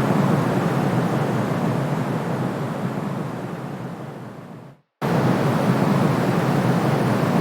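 Steady soothing white noise for a baby, weighted toward the low end like surf. About three seconds in it fades away, goes silent for a moment just before the five-second mark, then cuts back in abruptly at full level, as at the loop point of the noise track.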